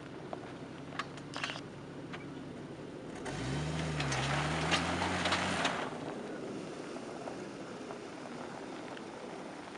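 An off-road vehicle's engine revs up for about two seconds in the middle, rising, dipping and rising again, with a rush of noise over it, against a steady low rumble and a few light clicks.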